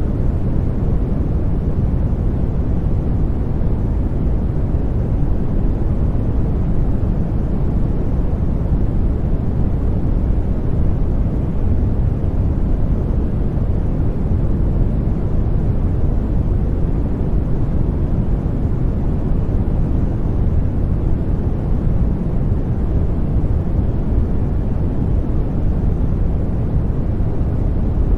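Continuous sleep-aid noise, deep and rumbling rather than hissy. It stays steady and unchanging throughout, with no breaks or events.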